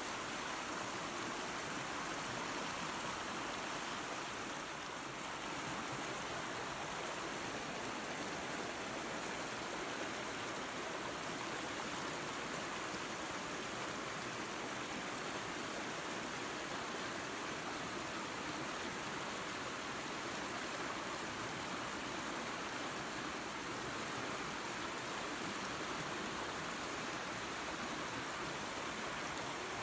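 Small waterfall and creek running water, a steady rushing hiss.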